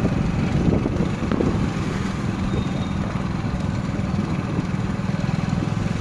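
Hero Honda Splendor Plus motorcycle's single-cylinder four-stroke engine running steadily while ridden slowly, a low even drone.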